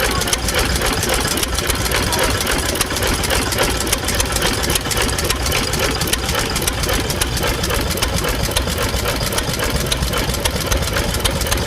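An engine running steadily, with a fast, even clatter.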